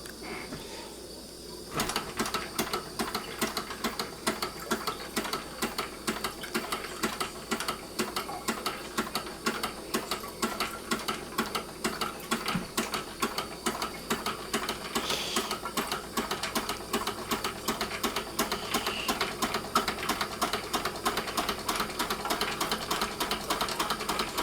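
Large hot air engine starting about two seconds in and then running with an even mechanical clatter of about three beats a second, over the steady hiss of the Bix gas burner heating it.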